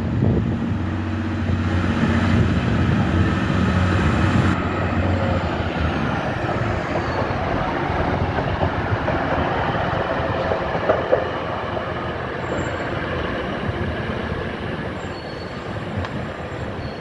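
A train passing along the track: a steady low hum for the first few seconds, then the rumble of wheels on rails, easing off a little near the end.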